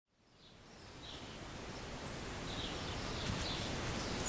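Outdoor ambience fading in: a steady background rush with a few short bird chirps scattered through it.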